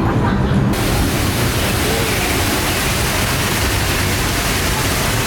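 Steady rushing noise heard aboard a moving Disneyland Railroad train, setting in abruptly about a second in, with faint voices underneath.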